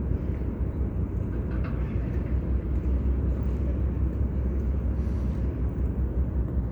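Steady low rumble of outdoor background noise, with a faint short tick about a second and a half in.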